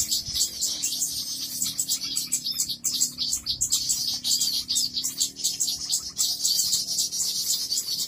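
Bird-lure recording of small birds chirping and twittering: a dense, fast run of high-pitched calls with no pause, over a faint low hum.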